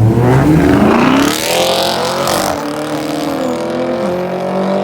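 Two cars launching side by side in a drag race, their engines revving up hard as they accelerate and rush past, then the engine note drops as they pull away. The cars are an Infiniti Red Sport with a twin-turbo V6 and a Chevrolet Camaro LT1 with a V8.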